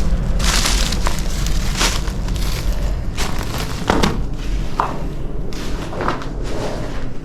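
Footsteps crunching over rough ground, roughly one step a second, over a steady low rumble.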